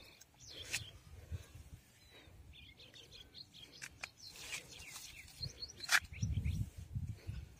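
Birds chirping: a run of short, high chirps. A sharp click comes about six seconds in, followed by a low rumble near the end.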